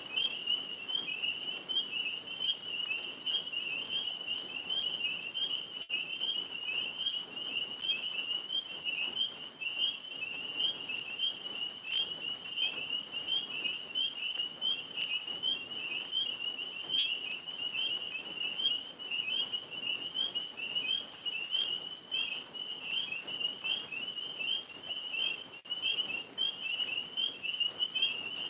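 Tree frogs calling in a steady, high-pitched chorus of rapid, repeating trills.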